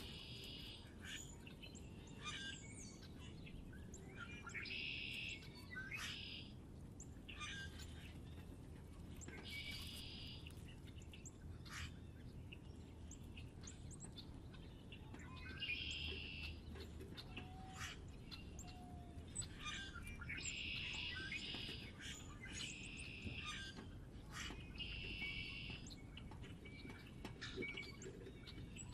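Small songbirds chirping outdoors: short bursts of high, twittering song roughly every five seconds, with single chirps scattered in between.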